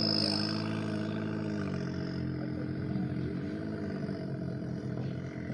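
A vehicle engine running, its pitch holding steady and then dropping a little about two seconds in as it slowly fades.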